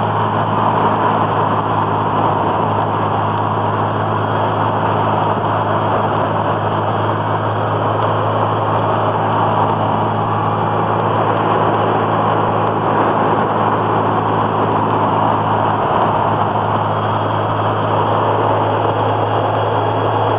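Inside the cabin of a twin-turbo Datsun Z car while driving: a steady engine drone with road noise and the air conditioning blowing, holding an even pitch and level throughout.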